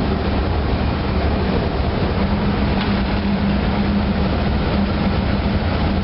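Ship's engine room: steady, loud machinery noise of the running MaK 8M32 medium-speed diesel main engine, with a steady low hum underneath.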